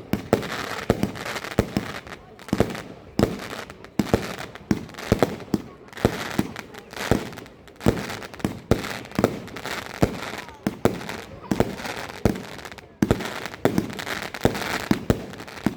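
Lesli Neon Outburst firework battery firing a long, rapid run of shots, about two to three sharp bangs a second, with a rushing noise between them.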